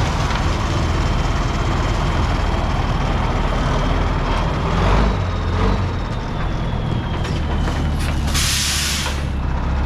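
Heavy diesel truck engine running steadily at the job site, with a short sharp burst of air hiss about eight seconds in, like an air brake being released.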